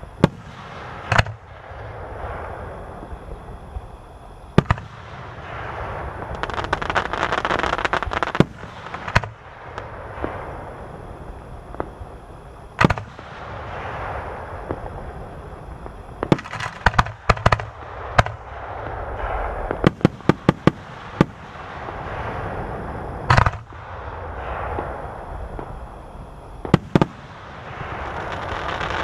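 Aerial fireworks shells bursting: a string of sharp bangs, some coming in rapid clusters, with crackling stars swelling and fading between them.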